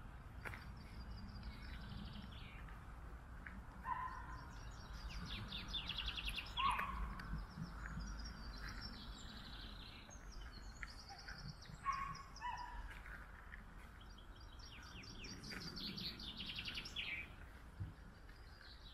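Small songbirds singing, each phrase a quick trill a second or two long, repeated several times. A few shorter, lower calls come about 4, 7 and 12 seconds in, over a steady low background rumble.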